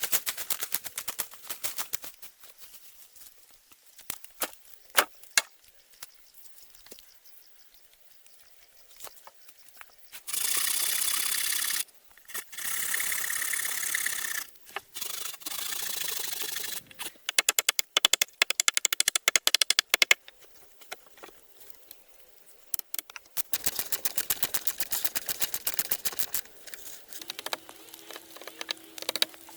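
Hand-tool work on wood or bamboo: scattered sharp knocks and clicks, then several stretches of steady rasping and scraping a few seconds each, broken by a run of rapid sharp strokes. A low steady hum comes in near the end.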